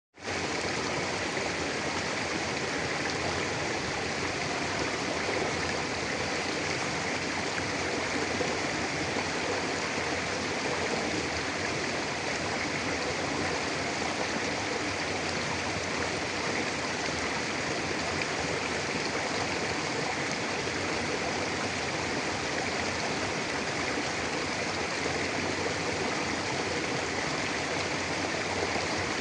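Mountain river flowing steadily over rocks: a constant, even rush of water.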